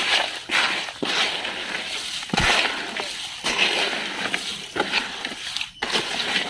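Plastic toy vehicles being scrubbed clean and handled: a steady scraping, rustling noise broken by scattered clicks and knocks of plastic.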